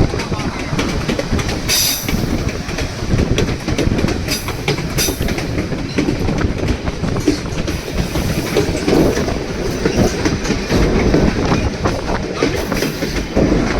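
White Pass & Yukon Route narrow-gauge passenger train running along the track, steady rumble with the wheels clacking over the rail joints and scattered sharp clicks.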